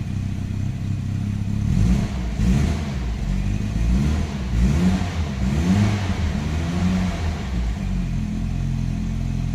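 Nissan Primera P10's 1.6 L GA16DS carbureted twin-cam engine running cold on a held throttle, its revs rising and falling a few times before settling steadier near the end. It won't idle cold unless the gas pedal is held; the owner traces this to a damaged valve in the carburetor that lets too little air in at cold start.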